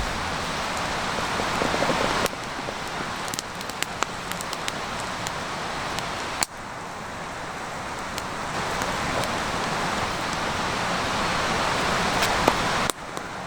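Wood fire crackling, with a steady rushing hiss and scattered sharp pops. The sound breaks off and starts again abruptly a few times.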